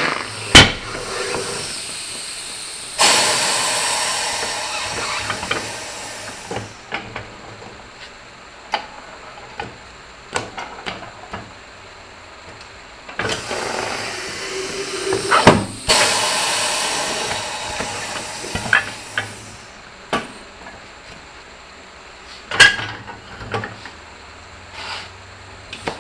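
Air hissing in two bursts of a few seconds each, each starting sharply, fading and cutting off, during work on a tractor tire and inner tube. Scattered knocks and clicks of tools on the wheel come between the bursts.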